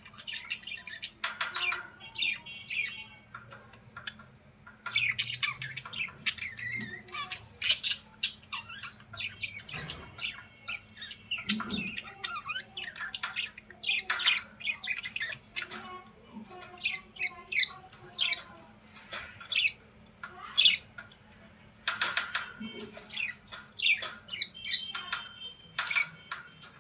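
Birds calling with a rapid, steady run of short squawks and chirps.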